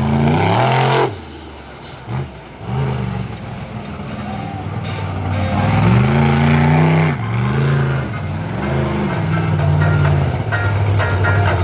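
Monster truck engine revving in repeated bursts, its pitch rising and falling with each rev. It is loud at first and drops off sharply about a second in, then builds again with several rev-ups through the middle.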